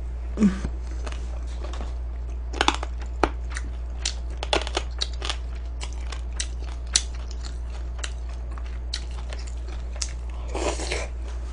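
A person chewing and crunching crispy fried chicken close to the microphone: irregular crisp crackles and crunches, a few louder bites among them, over a steady low hum.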